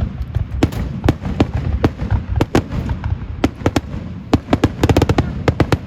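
Fireworks popping and crackling in irregular sharp bangs, with a quick rapid-fire cluster of pops about five seconds in, over a steady low rumble.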